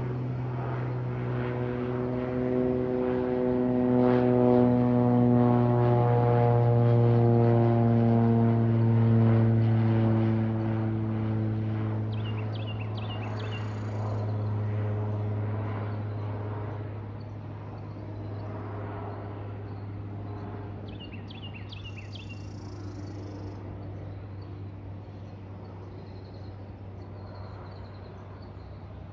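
Cessna 182P Skylane's six-cylinder piston engine and propeller droning overhead on its landing approach. The drone grows to its loudest about a third of the way in, its pitch sliding down as the plane passes, then slowly fades away.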